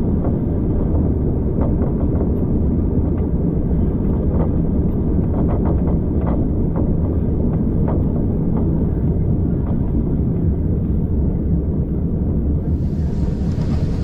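Steady low rumble of a train running along the track, heard on board, with scattered light clicks. It sounds muffled for most of the stretch and brighter again near the end.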